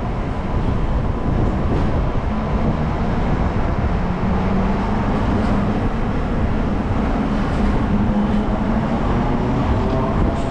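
Hong Kong double-decker tram running on its rails, heard from on board: a steady rumble of wheels and running gear with a motor hum that sets in about two seconds in and slowly rises in pitch.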